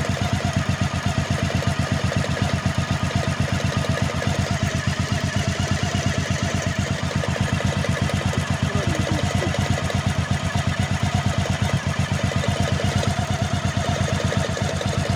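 Honda VT1100's V-twin engine idling steadily with a knock from the base of the first cylinder, which the owner says comes on before the engine is fully warm and goes away once it is. With the hydraulic lifters already repaired and no change, he suspects the cam chain tensioner.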